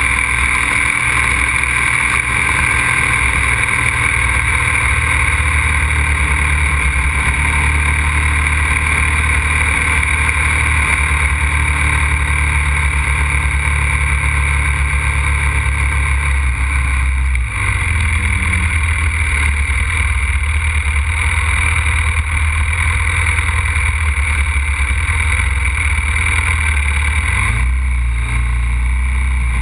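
Aprilia RXV 550 supermoto's V-twin running hard on track, heard onboard under a steady rush of wind noise. The engine note dips and shifts briefly about 17 seconds in, and shifts again near the end, as with a gear change or easing off the throttle.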